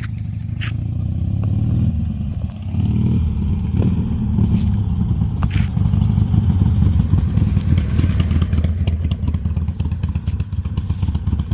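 Harley-Davidson Iron 883's air-cooled V-twin engine running with a pulsing rumble; the revs rise, drop briefly and rise again in the first few seconds, then it holds loud and steady.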